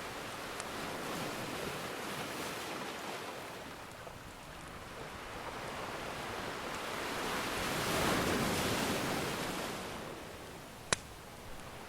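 Ocean surf washing on the shore, one wave swelling to its loudest about eight seconds in and then drawing back. Near the end a single sharp pop from a crackling wood fire, with a few faint crackles earlier.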